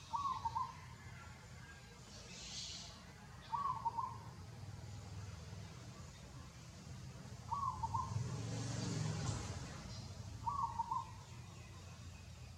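A bird calling: the same short phrase of a few notes, repeated four times at intervals of three to four seconds. Between the third and fourth calls a broad rushing noise swells and fades.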